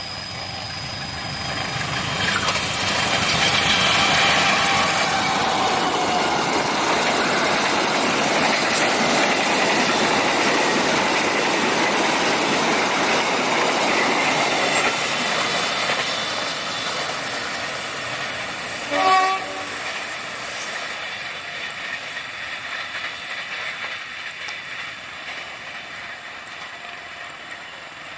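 A passing train: rumble and wheel clatter on the rails build up, hold for about ten seconds, then slowly fade as it goes by. About two-thirds of the way through comes a single short horn blast, the loudest moment.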